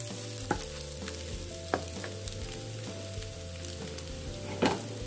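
Egg, onion, garlic and chilli sizzling in oil in a nonstick wok while a plastic spatula stirs and scrapes them, with a few sharp clicks of the spatula against the pan.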